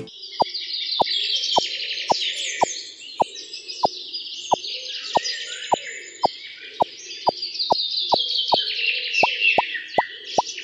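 Many small birds chirping and twittering continuously, with a sharp plopping tick repeating about twice a second.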